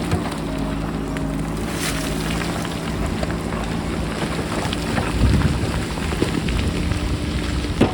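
JCB backhoe loader's diesel engine running steadily under heavy wind buffeting on the microphone, with scattered clattering of loose rocks, a little louder a few seconds in.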